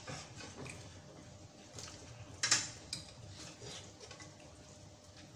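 Spoon and fork clinking and scraping against a ceramic soup bowl while eating, a few scattered clinks, the loudest about two and a half seconds in.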